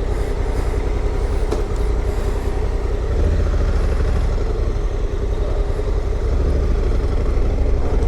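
Honda CRF1100 Africa Twin's parallel-twin engine running steadily under way, a continuous low drone with a steady hum over road and wind noise, growing a little louder about three seconds in.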